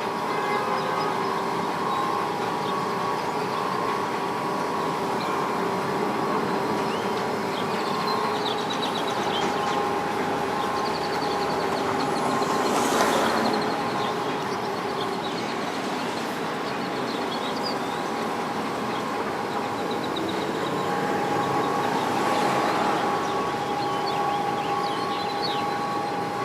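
Shopping cart freight elevator running as its car travels between floors: a steady mechanical hum with a few steady tones, swelling briefly about halfway through and again near the end.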